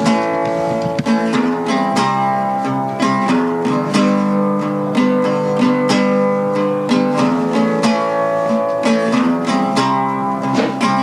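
Music: acoustic guitar being plucked and strummed.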